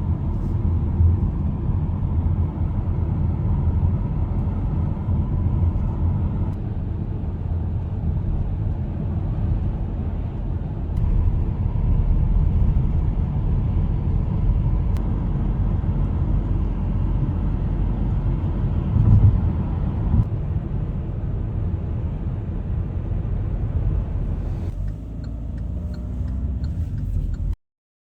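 Steady low rumble of a moving vehicle, which cuts off abruptly near the end.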